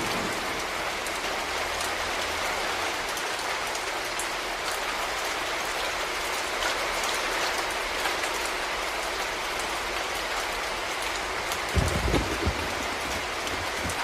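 Steady rain pattering on a surface, with a constant hiss of fine drop ticks. Near the end comes a brief low rumble, the loudest moment.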